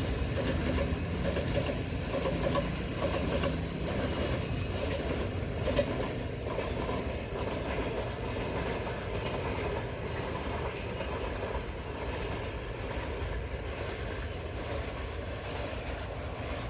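Freight train rolling along the rails, a steady rumble with some clatter, slowly fading as it moves away.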